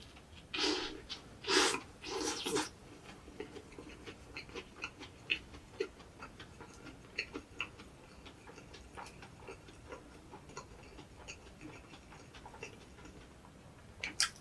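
Close-miked eating of an egg drop toast: small wet mouth clicks and chewing throughout, with three louder hissy sounds in the first few seconds.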